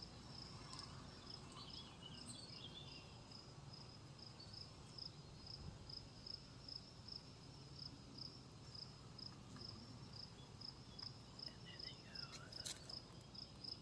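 Insect chirping steadily outdoors, a high chirp repeating about twice a second.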